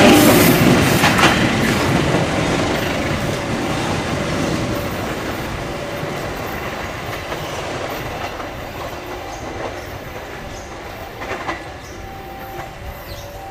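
Train wheels clattering over the rail joints as it moves away, fading steadily.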